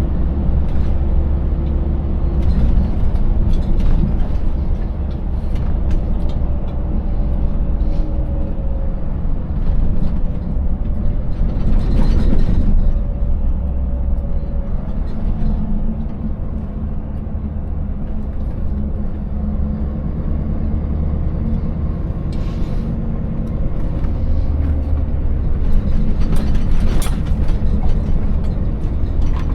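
Scania 590S 16-litre V8 truck engine running steadily under way, its pitch drifting a little as the revs change, with scattered knocks and rattles from the truck and empty trailer going over a broken, uneven road surface.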